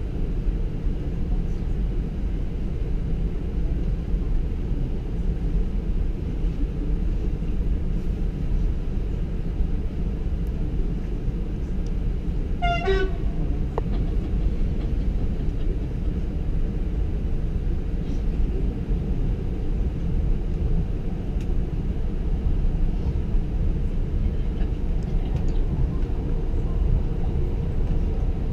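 Steady low rumble of a passenger train running, heard from inside the carriage. About halfway through a short high toot, like a horn, cuts through once.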